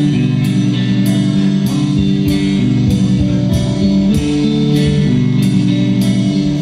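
Instrumental break in a rock song: guitar playing sustained chords over a steady drum beat, with a cymbal or snare stroke about every 0.6 seconds.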